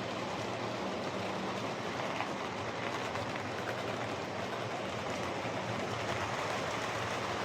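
Lima Class 55 Deltic OO gauge model locomotive running steadily along the track, its freshly serviced motor humming along with the rolling of its wheels on the rails. It is running smoothly and is not too loud.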